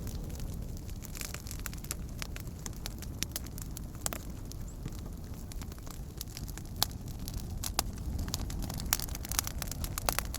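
Fire burning with irregular crackles and sharp pops over a steady low rumble, a few louder snaps about seven and nine seconds in.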